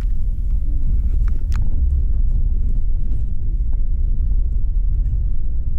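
Inside a moving bus: a steady low rumble of the bus on the road, with scattered light clicks and rattles from the cabin.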